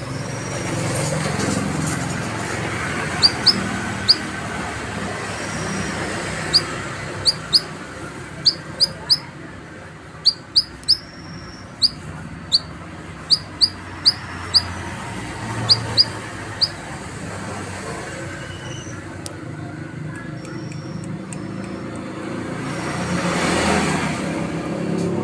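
Canary in heavy breeding condition ('over birahi') giving short, sharp rising 'cuit cuit' chirps, one or two a second, from a few seconds in until about two-thirds through. A steady low rumble of traffic runs underneath, and a vehicle passes near the end.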